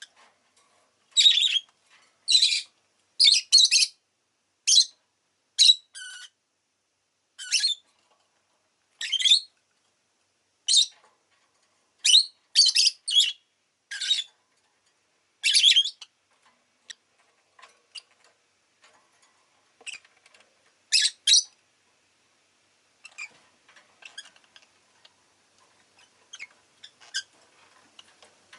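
Peach-faced lovebird giving short, sharp, high chirps, many in quick succession over the first half, then a pair near the middle; faint light clicking follows near the end.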